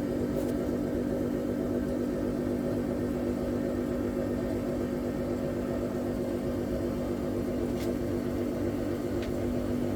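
Electrolux PerfectCare 800 laundry machine running with a steady, even hum and two faint ticks near the end.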